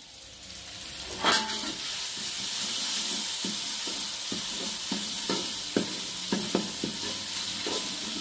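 Ground chili spice paste sizzling in a little oil in a metal wok, stirred with a metal spatula that scrapes and taps the pan about twice a second. A metal clank about a second in, after which the sizzle builds.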